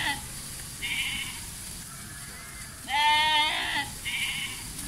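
Sheep bleating: a short, high bleat about a second in, then a louder, longer bleat about three seconds in, followed at once by another short, high bleat.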